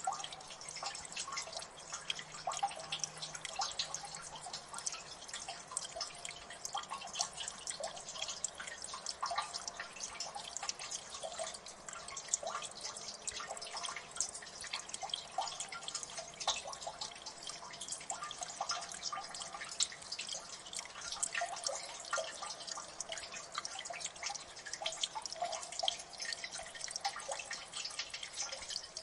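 Water dripping in a gully: many irregular drops plinking into water, several a second, over a soft steady trickle.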